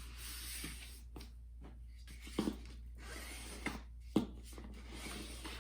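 Stiff poster board being folded and creased by hand: a dry rustle and scrape with a few sharp crackling clicks.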